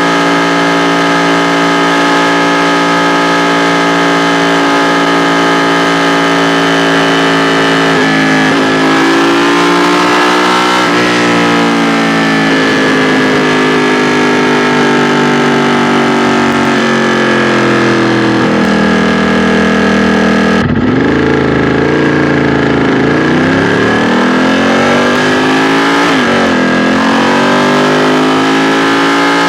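2016 Ducati XDiavel S's 1262 cc Testastretta L-twin engine and exhaust under way. It holds an even note at first, steps in pitch about eight seconds in, then its revs fall slowly for several seconds. About two-thirds through the note breaks off sharply and climbs again, with another step and climb near the end, as the bike shifts and accelerates.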